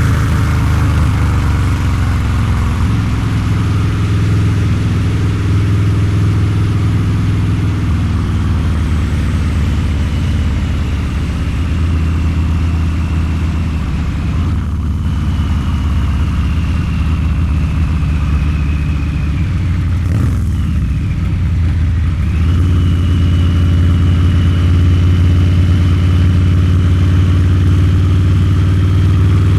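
Harley-Davidson Low Rider's 129 cubic inch V-twin running through a Two Brothers Racing exhaust, riding along at steady throttle. The exhaust note briefly drops off twice, about halfway and about two-thirds through, then picks back up.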